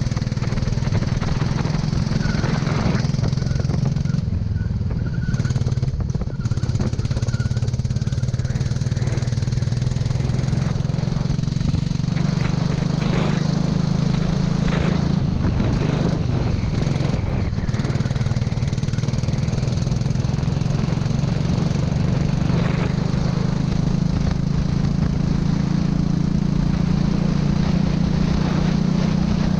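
Kart engine running under load with a steady note that climbs gently through the second half and drops away near the end, over a hiss of noise.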